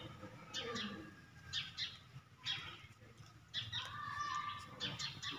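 Small birds chirping in short, high clusters about once a second, with a brief thin, steady whine about three and a half seconds in.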